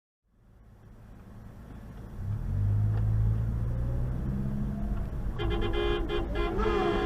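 Vehicle engine and road noise fading in and rising, then a car horn sounding and held from about two-thirds of the way in. A few sharp clicks come just after the horn starts.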